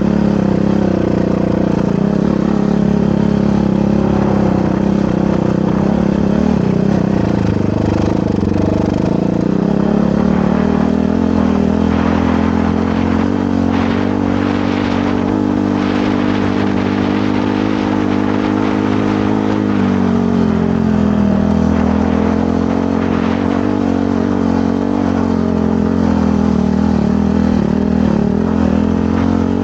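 Motorcycle engine running under way, its revs climbing about a third of the way in, easing off around two thirds of the way through and picking up again at the end. Short clattering noises come through in the middle.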